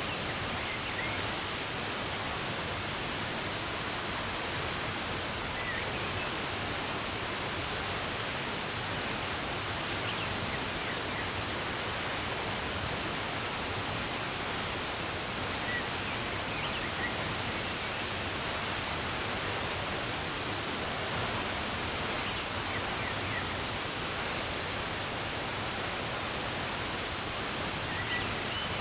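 Running water rushing steadily, with faint short bird chirps scattered over it.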